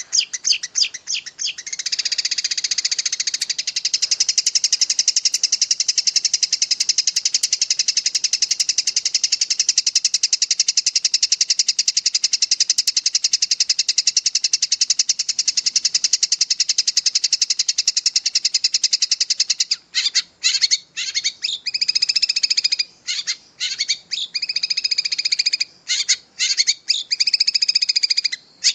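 Long-tailed shrike (cendet) singing a long, unbroken, very fast high trill in the 'ngerol' style prized by bird keepers. About two-thirds of the way through the trill breaks off into shorter, choppy phrases.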